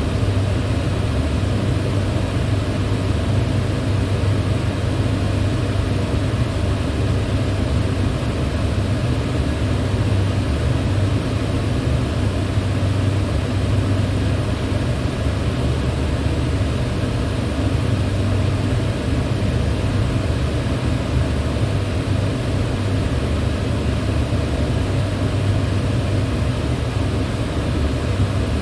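Electric fan running steadily: a constant rush of moving air with a strong low hum, unchanging throughout.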